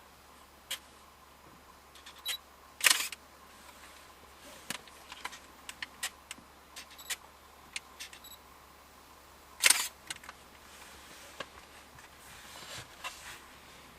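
Camera handling noise: scattered sharp clicks over a faint steady hiss, with two louder brief knocks about three seconds in and again near ten seconds.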